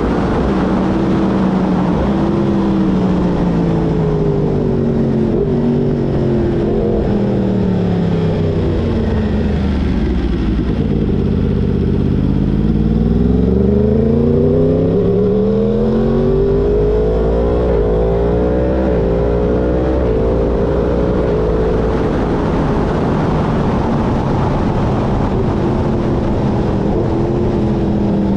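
Yamaha sport bike's crossplane inline-four engine running under way with wind rush. The revs fall steadily for the first dozen seconds as it slows, then climb again before levelling off.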